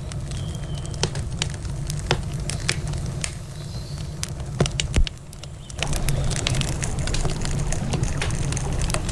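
Wood campfire crackling, with frequent sharp pops and snaps at irregular intervals over a steady low rush. The rush drops away briefly about five seconds in, then returns louder.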